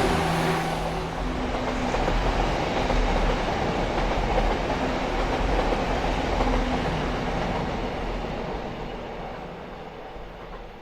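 Diesel multiple unit passenger train running by on the line, its engine note giving way to wheel and rail rumble that fades steadily as it draws away.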